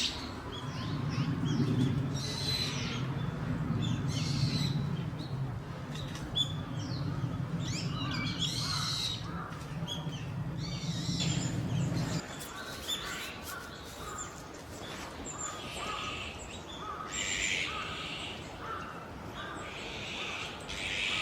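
Wild birds calling, with many short chirps and calls, some repeated in short series in the second half. A low steady hum underneath stops suddenly about halfway through.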